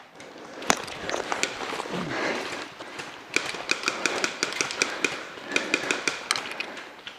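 Airsoft guns firing: a string of sharp, irregular cracks and clicks, one loud shot about a second in and a dense run from about three seconds, over rustling movement.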